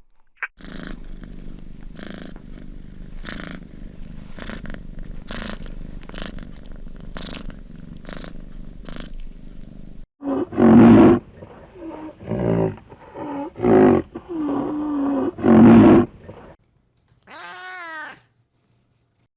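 Domestic cat purring steadily for about ten seconds, then a run of loud animal calls, and one short rising-and-falling call near the end.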